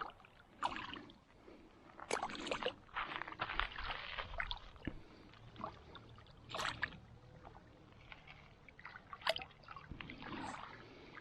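Irregular splashing and handling noises, several short bursts a second or so apart, as a small roach is landed and unhooked at the water's edge.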